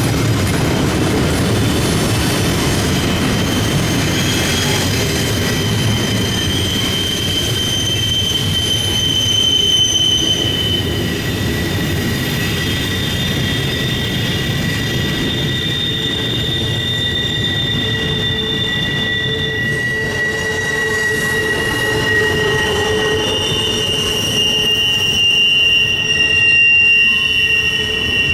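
Long CSX intermodal freight train rolling past, with a steady rumble of the cars and several long, high-pitched wheel squeals that overlap and hold for seconds at a time.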